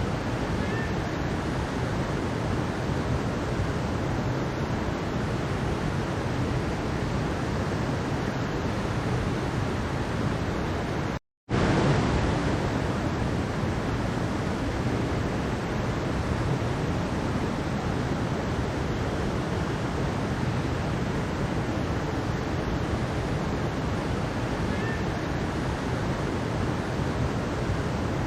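Mountain stream flowing in a steady, even rush of water. It cuts out to silence for a moment about eleven seconds in, then resumes.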